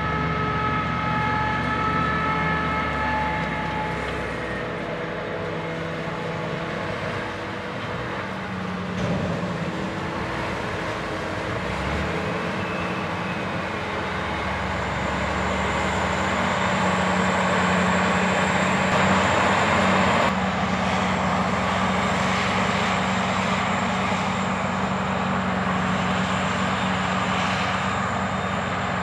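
Heavy harvest machinery running: a steady diesel drone with pitched tones that fade out in the first few seconds, and a high, steady whine that sets in about halfway and holds.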